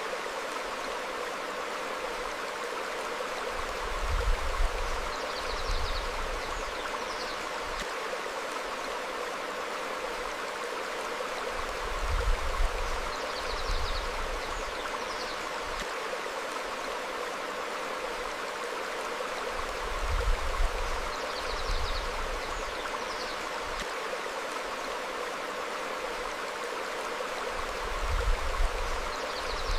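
Stream flowing steadily over rocks, with short faint bird chirps now and then. A low rumble swells briefly about every eight seconds.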